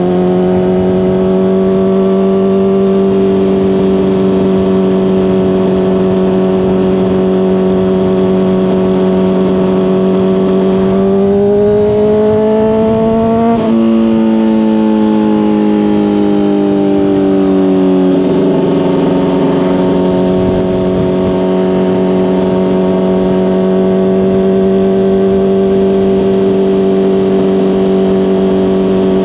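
Honda CBR600RR inline-four with a Hotbodies Stinger slip-on exhaust, heard from the rider's helmet while cruising at steady revs. About eleven seconds in the revs climb under acceleration, drop sharply at an upshift, and sink as the throttle eases, before it settles back to steady cruising.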